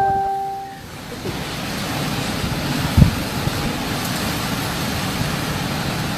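Hurricane-force wind as a steady rushing noise that builds after about a second and holds, with a single thump about three seconds in. An electronic chime from the phone rings out in the first second.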